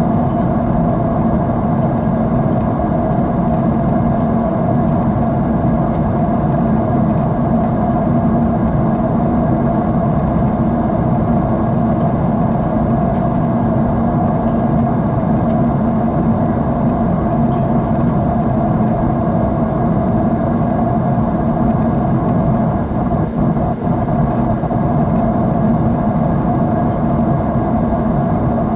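Jet airliner cabin noise heard from a window seat: the engines and rushing air make a steady, unbroken low drone. The drone is strongest in the low and lower-middle range, with a faint steady hum in it, and briefly dips once about three quarters of the way through.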